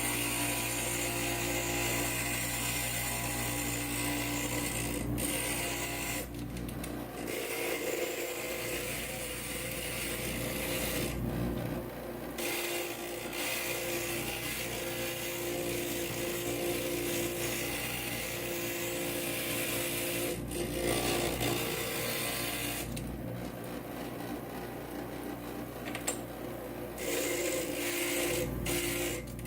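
Inland stained-glass grinder's motor running steadily while glass is held against the grinding bit. A high grinding hiss drops out briefly a few times as the glass is lifted off, while the motor hum carries on.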